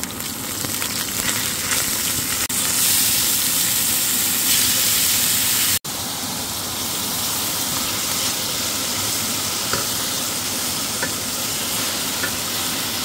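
Sliced garlic, green bird's eye chilies and shrimp paste sizzling in hot sunflower oil in a stainless steel pan, stirred with a wooden spatula. After an abrupt cut about six seconds in, thinly sliced bitter gourd sizzles a little more quietly as it is stir-fried.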